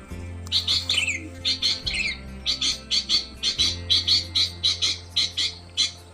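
Recorded small-bird calls played through a speaker as a lure for bird trapping: quick high chirps repeated about three to four times a second, with a few falling whistles in the first two seconds, over a low electronic hum that cuts in and out.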